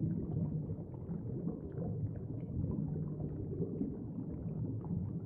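Steady, low underwater ambience: a deep rumbling wash with faint bubbly specks above it.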